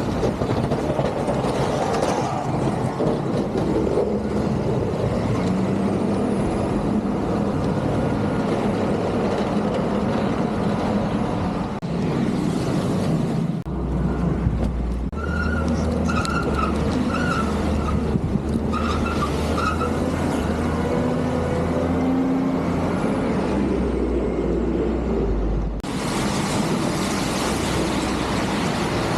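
Heavy snow-removal machinery working, diesel engines running steadily with a dense mechanical rush. A short series of high beeps is heard midway, and the sound changes abruptly twice.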